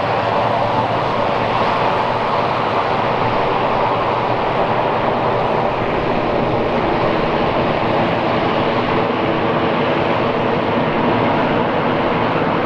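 Twin Pratt & Whitney Canada PT6A-67R turboprops of a Basler BT-67 (turbine-converted DC-3) running steadily at close range, a loud even rush with a steady hum under it.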